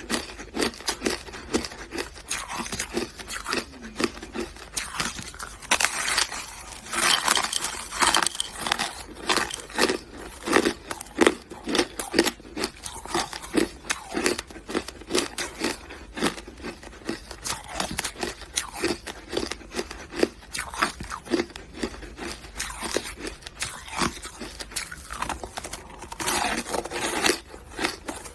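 A person biting and chewing hard, crunchy shaved ice: a dense, continuous run of sharp crunches and cracks.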